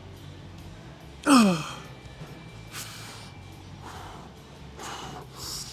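A man lets out one loud sigh about a second in, its pitch falling steeply, then breathes hard with several shorter noisy breaths, winded from lifting weights.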